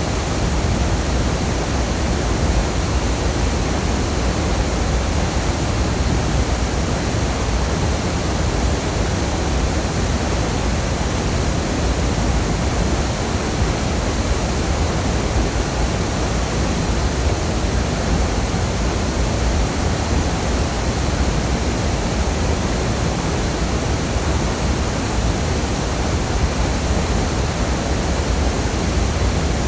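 Waterfall: falling water making a loud, steady rush that does not change.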